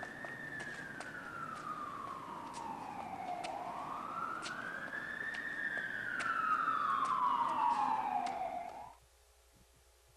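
Siren wailing slowly up and down, climbing and falling about twice, with scattered sharp clicks over it. It cuts off suddenly near the end, leaving a faint hum.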